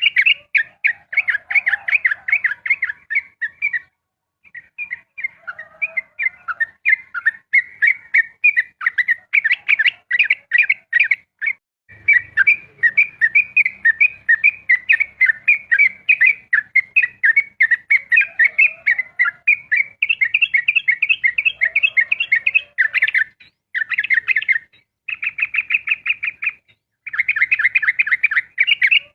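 Yellow-vented bulbul (trucukan) singing a long, fast 'ropel' song: rapid runs of chirping notes, broken by a few short pauses.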